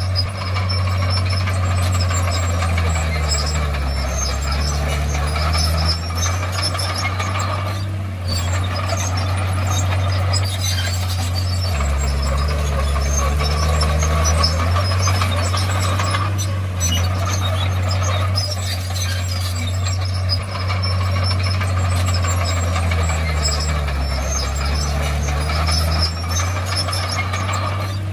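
Komatsu crawler bulldozer's diesel engine running hard and steadily, its note dipping and recovering about three times, with rattling over it.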